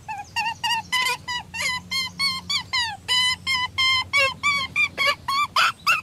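A gull calling in a rapid series of short, high, yelping calls, about three to four a second, some held level and some sliding down in pitch.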